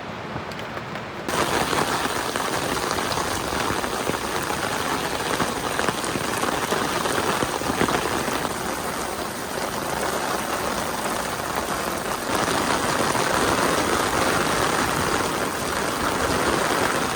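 Heavy rain pouring down in a dense, steady hiss, starting abruptly about a second in and growing a little louder past the middle.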